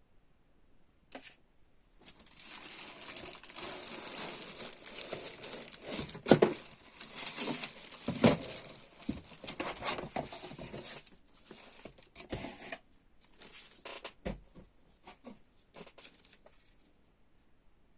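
Packaging being unwrapped by hand: dense crinkling and tearing for about ten seconds, then a few scattered clicks and knocks of handling.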